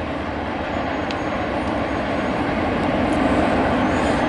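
Loaded freight train cars rolling along the rails as the end of the train passes, a steady rumble of wheels and cars that grows slowly louder.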